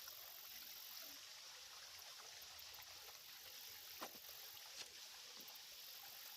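Shallow creek running with a steady, soft trickle, with a few faint clicks around four and five seconds in.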